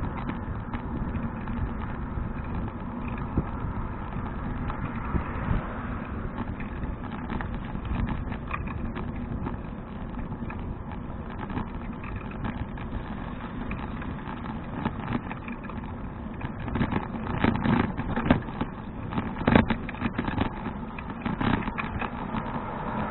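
Riding noise from a Fuji touring bicycle carrying an action camera: a steady low rumble of wind and tyres. Near the end comes a run of sharp rattles and knocks.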